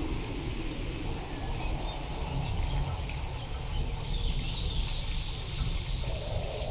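Storm ambience: steady rain over a continuous deep rumble, sound-designed to seem otherworldly. Faint high tones come in about four seconds in.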